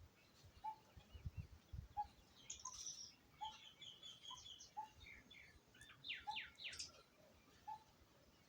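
Small birds chirping and twittering faintly, with a quick run of falling notes about six seconds in. A soft, lower note repeats at a steady pace throughout.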